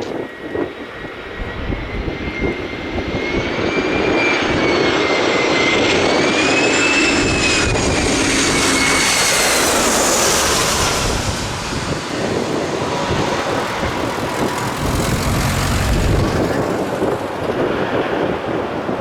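Airbus A320 jet engines on final approach passing low overhead: a loud roar with a high whine that wavers upward, then drops in pitch and fades about eleven seconds in as the jet goes past. Gusty wind rumbles on the microphone underneath.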